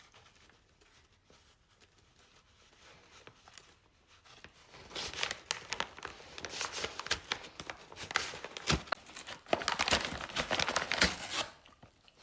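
Parcel packaging crinkling and tearing as a Labrador retriever works at a delivered package. It starts about five seconds in, in irregular rustles and rips, and stops shortly before the end.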